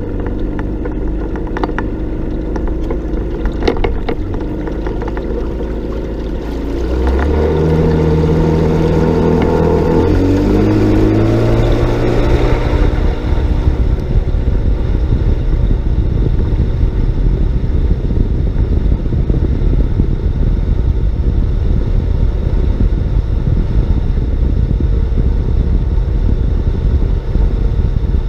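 Two-stroke outboard motor running slowly, then opened up about seven seconds in: its pitch climbs over several seconds before it settles into a steady, loud run at speed.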